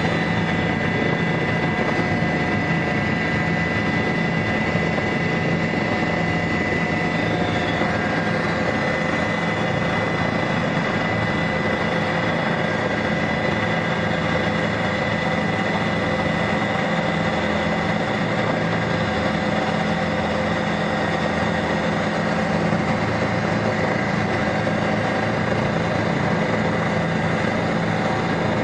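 Tour helicopter's turbine engine and rotor running steadily in flight: a constant drone with a few thin, steady whining tones above it.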